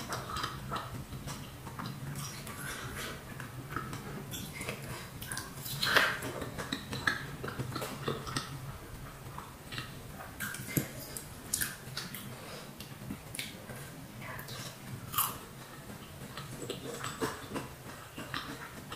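Close-up chewing of fried battered tempeh (tempe mendoan), with wet mouth clicks and smacks at irregular moments, the loudest about six seconds in and again about fifteen seconds in, over a low steady hum.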